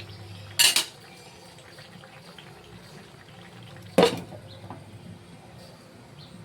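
Kitchen cooking sounds at a curry pot: two short, loud, noisy bursts, one just under a second in and one about four seconds in, over a low steady hum, with water and pot noise between them.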